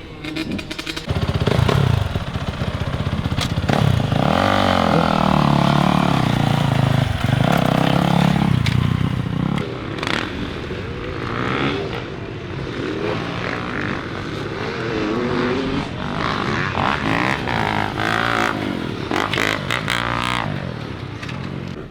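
Dirt bikes riding a motocross track, their engines revving up and down, loudest in the first several seconds.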